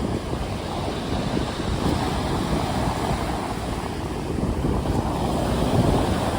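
Stormy sea: waves breaking and surging steadily, with wind.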